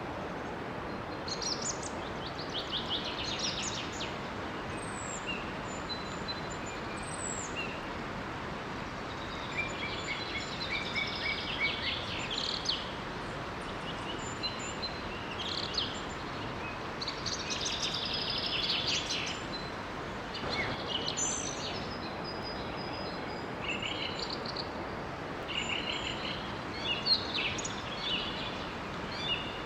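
Several songbirds singing and chirping, with rapid trills and short high whistles, over the steady rush of a small waterfall.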